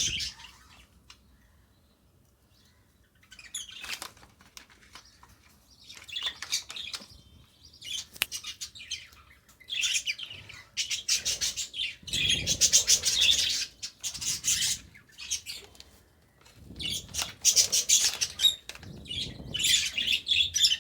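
Lovebirds chirping in repeated bursts of rapid, raspy calls, starting after a few quiet seconds and growing busier toward the end.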